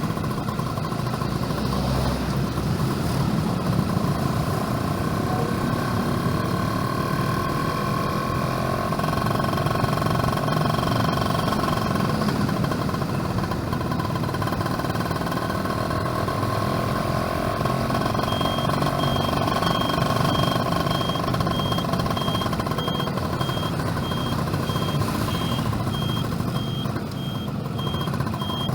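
Yamaha F1ZR two-stroke motorcycle engine running steadily while riding. About two-thirds of the way through, a high, evenly repeating beeping joins it and keeps on.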